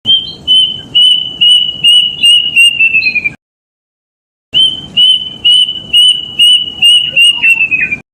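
Kedasih cuckoo (a Cacomantis cuckoo) singing its whistled song twice: each phrase is a string of about eight clear notes that fall slightly in pitch and quicken toward the end. A gap of about a second separates the two phrases.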